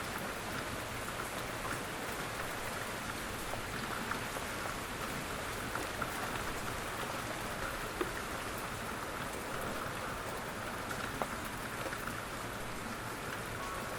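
Steady rain falling on a surface, an even hiss of rain with many small drop ticks scattered through it, a few sharper than the rest.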